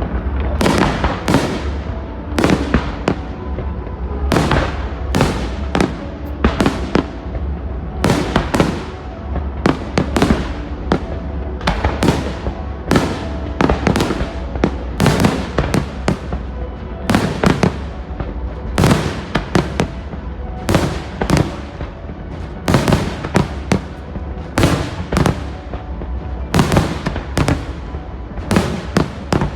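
Aerial fireworks bursting in quick succession, about one to two sharp bangs a second, each trailing off briefly, over a steady low rumble.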